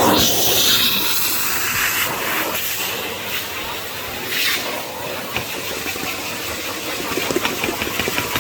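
Henry HVR200 620 W vacuum cleaner running, a rushing suction hiss over a faint steady motor whine, swelling and easing as the nozzle is worked. Short crackles come through near the end.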